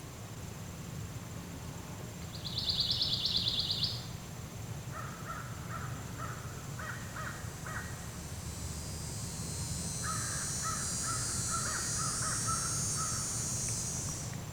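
Crows cawing in two runs of calls, about five seconds in and again around ten seconds. A loud high buzz sounds briefly near three seconds, and a high steady buzzing drone swells in from about eight seconds.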